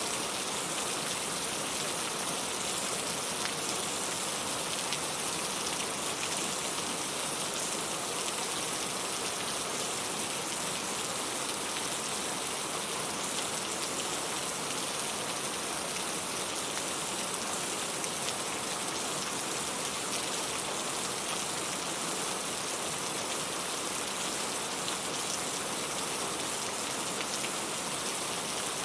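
Steady rain falling on a surface: an even, unbroken hiss of many drops, strongest in the high pitches.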